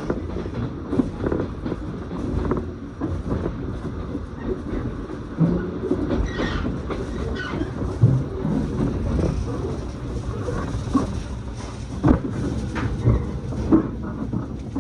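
Electric train running on the rails, heard from inside the passenger car: a steady rumble with irregular wheel clicks and knocks over the track.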